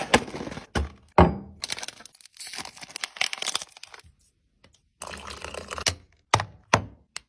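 Crisps and sweets being tipped and placed onto serving plates: rustling and crinkling of snack packets and food, broken by several sharp clicks and knocks, the loudest a little over a second in and twice near the end.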